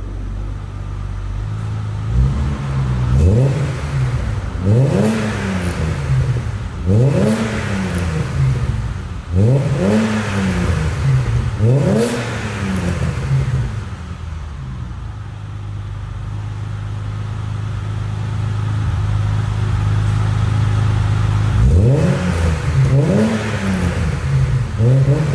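BMW E30 325i's 2.5-litre inline-six exhaust, the engine idling and revved in a run of quick throttle blips, each rising sharply and dropping back to idle. After a stretch of steady idle in the middle, three more blips come near the end.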